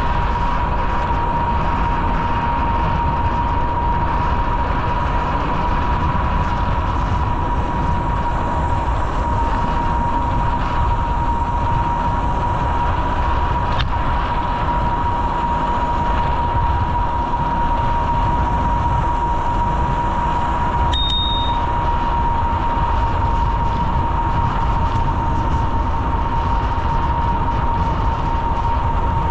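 Steady wind and road noise from riding a bicycle along a paved trail, with a constant high hum running underneath. About 21 seconds in comes a short, bright ding.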